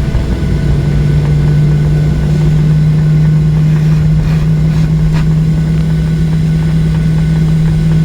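Boeing 737-800's jet engines running at low power, heard inside the cabin as a loud steady drone with one strong low hum over a deeper rumble.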